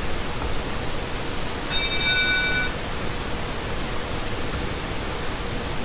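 Steady hiss, with a high whine of several tones held together for about a second, about two seconds in.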